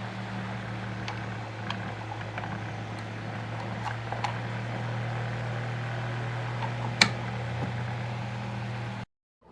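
Small electric table fan running: a steady motor hum under an even rush of air, with faint scattered ticks and one sharp click about 7 seconds in. The sound cuts off abruptly near the end.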